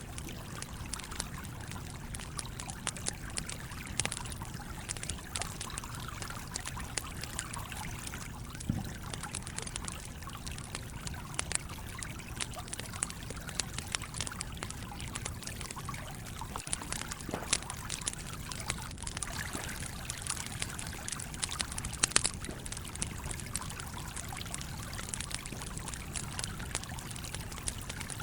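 Stream trickling and flowing steadily, with a wood campfire crackling in short, sharp pops throughout; a few pops in the second half stand out louder.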